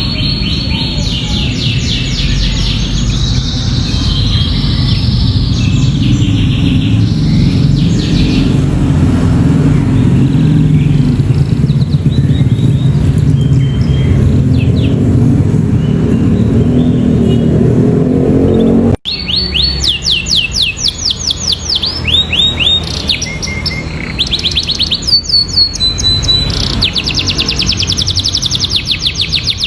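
Domestic canary singing fast trills of repeated rising whistled sweeps, a song filled in with phrases of the bar-winged prinia (ciblek). A loud low rumble lies under the singing until a brief dropout about two-thirds in, after which the trills are clearer.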